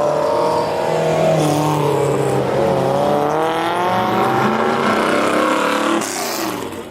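Car engines running and revving, several pitches rising and falling over one another; the sound drops away sharply about six seconds in.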